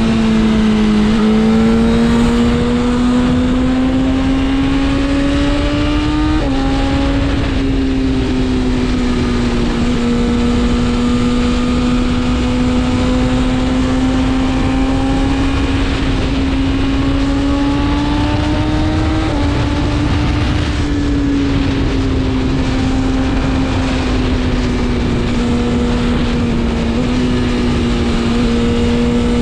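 BMW S1000RR's inline-four engine under way, its pitch climbing slowly as the bike accelerates. There is a sharp drop in pitch about six seconds in as it shifts up, and a smaller dip near twenty seconds. A steady rushing noise runs underneath.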